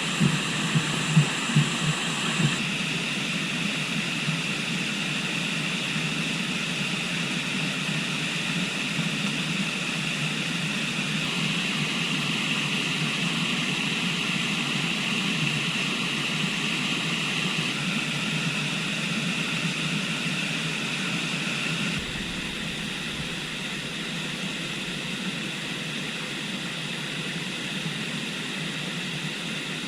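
Steady rushing of river water, an even noise with no pauses, changing slightly in tone a few times. A few light knocks in the first couple of seconds.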